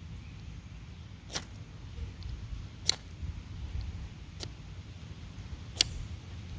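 Repeated sharp clicks of a lighter being struck to light a homemade fire starter, about one every second and a half, over a low steady rumble.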